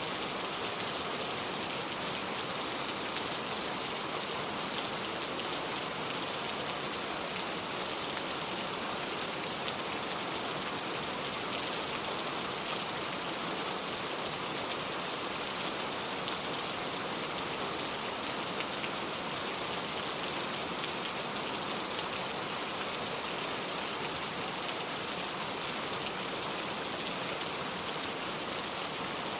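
Heavy rain pouring steadily, a dense even hiss with fine scattered drop ticks.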